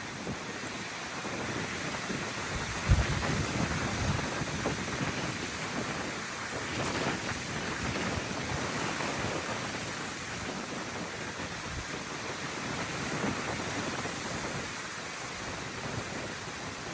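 Strong gusty wind rushing and buffeting the microphone in surges, with a heavy low thump of wind about three seconds in.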